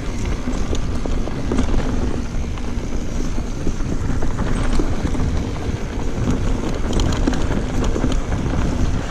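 Mountain bike riding down a dirt singletrack: tyres rolling over dirt and rocks with a constant scatter of small rattles and clicks from the bike, over a steady low wind rumble on the microphone.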